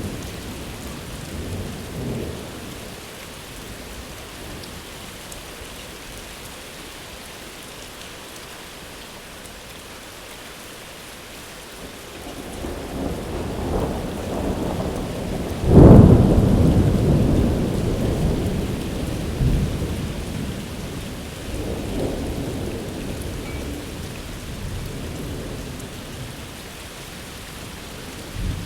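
Steady rain falling, with thunder: a faint rumble early on, then a rumble building about twelve seconds in to a sharp, loud clap about sixteen seconds in that rolls away slowly over several seconds.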